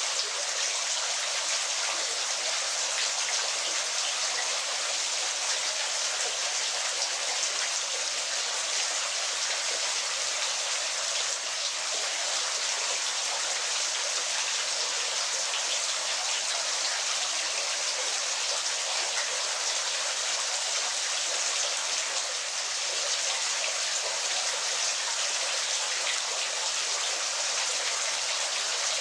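Waterfall splashing steadily: an even, hissing rush of falling water with almost no low rumble.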